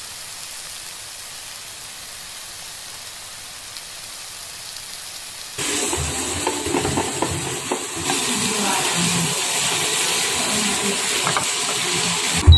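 Tuna cubes sizzling in butter and olive oil in a nonstick pan, a steady frying hiss. About five and a half seconds in the sizzle turns suddenly louder, with scattered light knocks and scraping of a utensil stirring the pieces.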